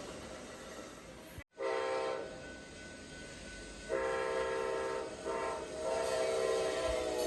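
Amtrak P42DC diesel locomotive's multi-chime air horn sounding four blasts (short, longer, short, then long), the last one dropping slightly in pitch as the train goes by, over the noise of the passing train. The sound cuts out for an instant just before the first blast.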